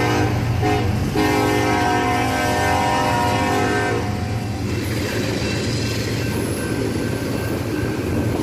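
Freight train's locomotive horn sounding two long blasts. The first ends about half a second in, and the second runs from about a second in to about four seconds. After that comes the steady rumble of loaded container cars rolling past.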